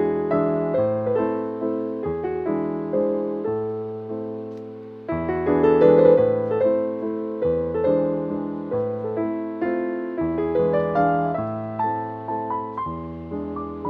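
Background piano music: a gentle melody over struck chords that change every second or so, each note fading after it is played.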